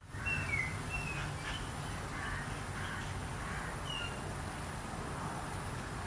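Outdoor ambience of birds calling: a few short chirps in the first second and another near four seconds, over a steady low rumble and a faint steady high tone.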